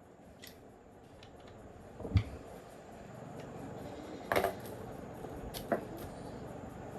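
A few scattered sharp clinks and knocks over a low background noise. The loudest is a clatter about four and a half seconds in, after a heavier thud about two seconds in.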